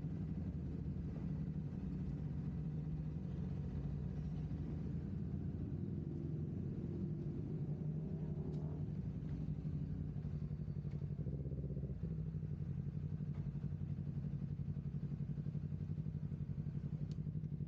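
Motorcycle engine running at a steady speed, its note shifting slightly about twelve seconds in.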